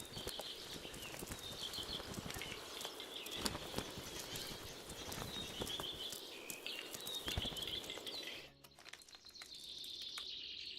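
Small forest songbirds singing repeated trilled phrases over a steady background, with irregular clicks and taps. The sound drops away suddenly about eight seconds in, then the birdsong returns more quietly.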